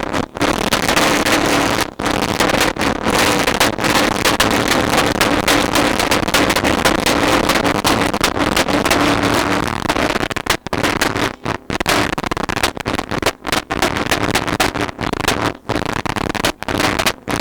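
Loud vehicle noise at a truck meet: a dense, hissing roar over a steady low hum, chopped by several abrupt cuts, most of them in the second half.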